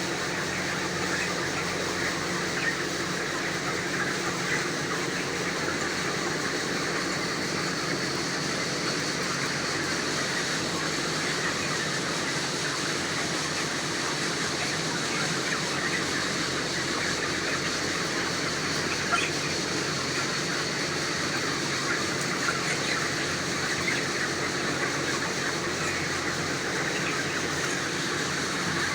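A flock of young broiler chickens calling together, a dense steady chatter of short peeps and clucks, over a constant machine hum.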